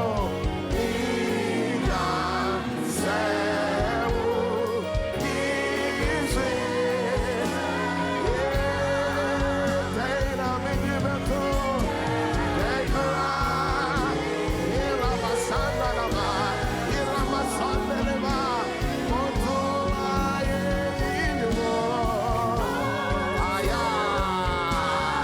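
Gospel worship music: a sung vocal line with a wavering vibrato over sustained keyboard-like chords and a steady beat.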